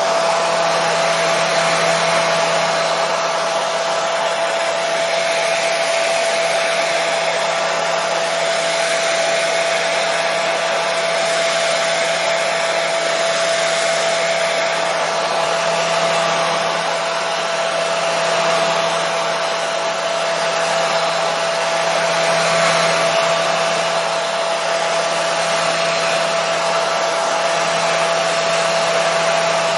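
Hair dryer running steadily: an even rushing blow with a steady whine. Played continuously as white noise to soothe a colicky baby.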